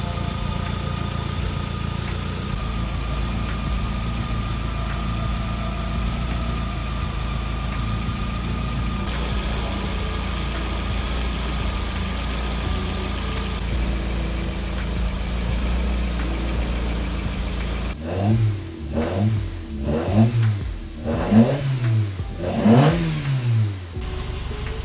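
Toyota 4A-GE four-cylinder twin-cam engine idling steadily as it warms up after a cooling-system refill, with the heater on to push coolant through the heater core. Near the end the throttle is blipped about five times in quick succession, the engine note rising and falling with each rev.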